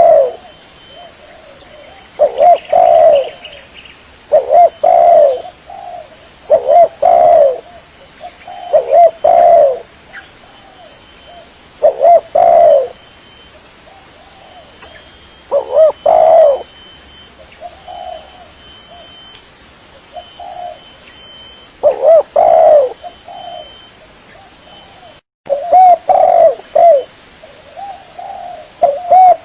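Spotted dove (tekukur) cooing in repeated phrases of a few coos, roughly one phrase every two seconds, with a stretch of softer, sparser coos midway. It is the call recording used as a lure to draw wild spotted doves.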